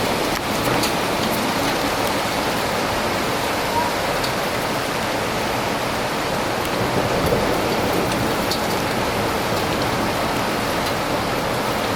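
Thunderstorm rain falling steadily in a downpour, with a few faint sharp ticks of drops.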